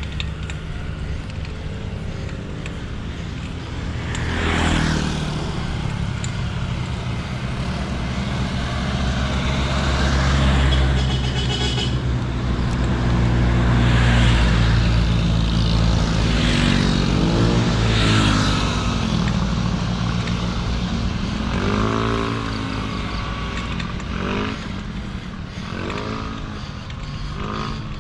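Wind rushing over the microphone of a moving bicycle, with road traffic going by. Several passing engines rise and fall in pitch, mostly in the second half.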